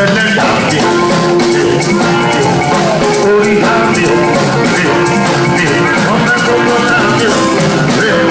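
Live band playing Latin-style music, with a drum kit and maracas keeping a steady beat under guitar.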